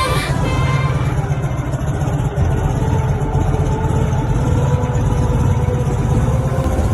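Dnepr motorcycle's flat-twin engine running steadily.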